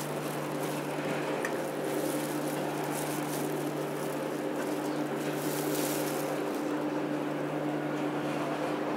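Freight train wagons rolling past on the station tracks: a steady rumble of wheels on rail, with a steady low hum and faint ticks over it.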